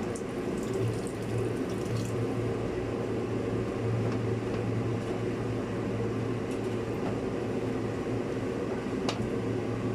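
Steady mechanical hum, like a fan or kitchen appliance running, with a few faint light clicks.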